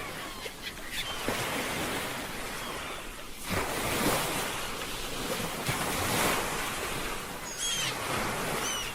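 Ocean waves breaking and washing on a shore, surging louder about three and a half seconds in and again around six seconds, with some wind noise. Two short high-pitched calls sound near the end.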